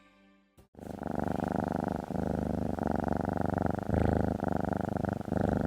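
Domestic cat purring, starting about a second in and going on in steady cycles with brief breaks between breaths.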